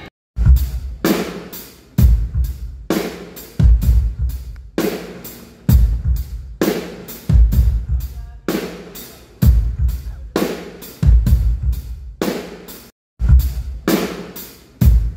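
Drum kit played through a concert PA for a sound check: a steady beat of kick drum, snare, hi-hat and cymbals. It cuts out briefly about 13 seconds in.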